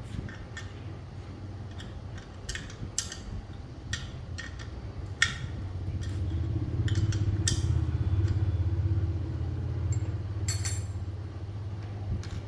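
Metal parts and tools clicking and clinking in short knocks while an air compressor is worked on, over a low steady hum that grows louder for a few seconds midway.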